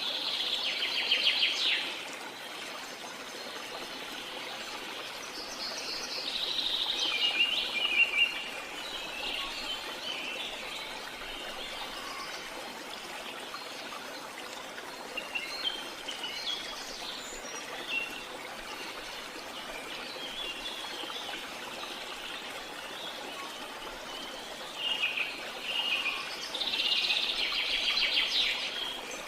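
Steady rush of a waterfall with bird calls and rapid chirping trills coming and going over it. The birds are loudest near the start, around a quarter of the way in, and again near the end.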